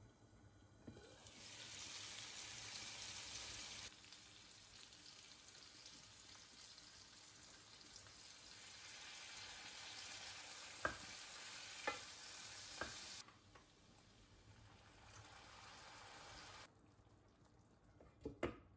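Food sizzling in a frying pan: a steady hiss that fades about two-thirds of the way through, with a few sharp taps of a cooking utensil against the pan.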